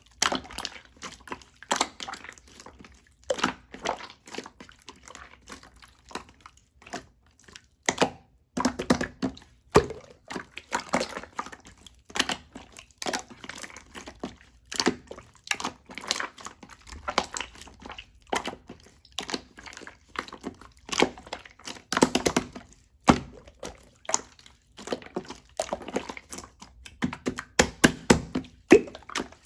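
Close-up handling sounds: irregular taps, clicks and crinkling of small objects being moved and set down, a few a second.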